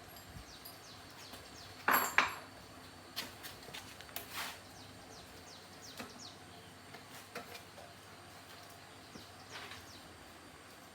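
Metal parts and tools clinking and knocking: two loud knocks about two seconds in, then scattered lighter clicks.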